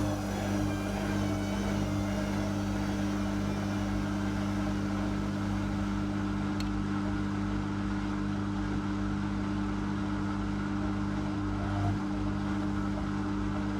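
Whirlpool Indiana 1400 front-loading washing machine running with a steady motor or pump hum. A faint high whine slides down in pitch and fades over the first few seconds, and there is a small tick about halfway through.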